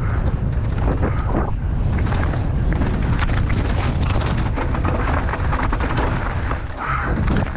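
Wind buffeting the microphone: a loud, constant low rumble with crackling through the middle seconds.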